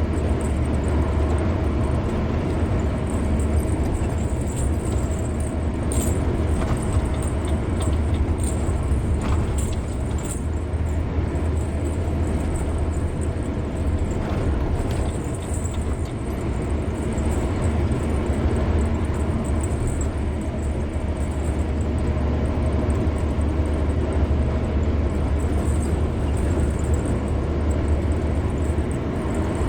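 Car driving at a steady speed on a highway: constant low rumble of engine and tyres on the road surface, with a few faint ticks or rattles between about six and eleven seconds in.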